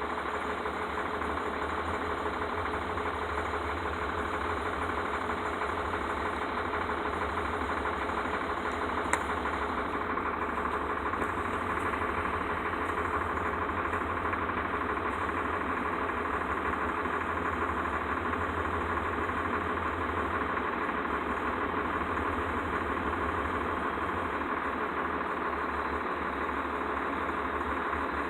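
Engine idling steadily, with a brief click about nine seconds in.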